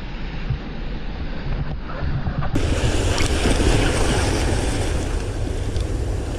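Sea surf washing, with wind rumbling on the microphone; the sound grows a little louder about two and a half seconds in.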